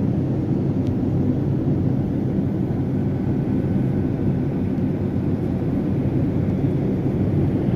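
Steady low rumble of cabin noise inside a Boeing 787-9 airliner in flight.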